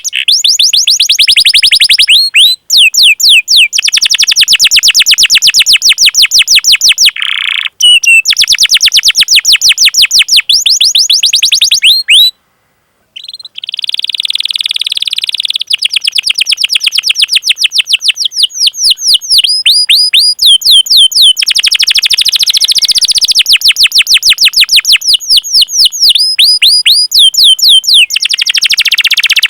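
Domestic canary singing long, rolling trills of fast repeated falling notes, with a short break about twelve seconds in.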